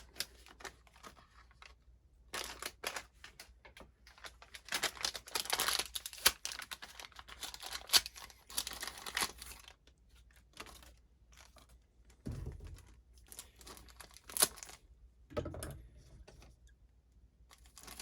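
Plastic packaging crinkling and tearing as new parts are unwrapped, with scattered sharp clicks of small metal parts being handled.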